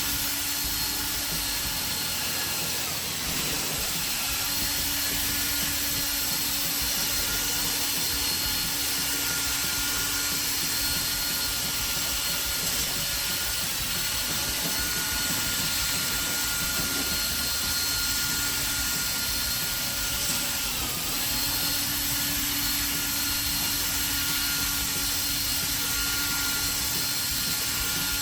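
Cordless drill spinning a P500 sanding disc against a plastic headlight lens, a steady motor whine over the rasp of dry sanding. The motor's pitch sags briefly twice as it takes load.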